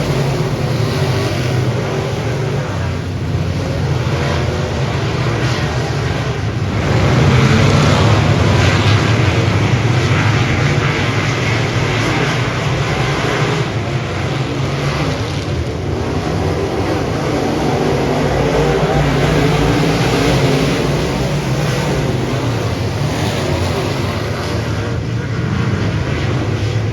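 Dirt modified race car engines running at speed on track, a continuous engine sound that grows louder about seven seconds in.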